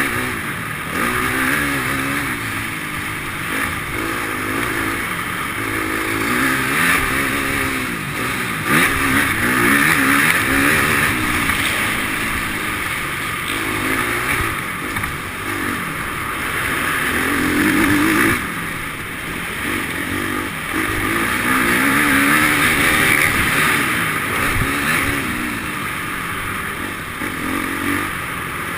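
Motocross dirt bike engine revving up and down again and again as it rides the track, its pitch rising and falling every few seconds over a steady rushing noise.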